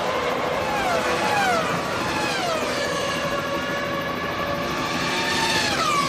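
Formula One cars' 3-litre V10 engines at high revs, several cars one after another, each one's pitch falling as it goes by or shifts down.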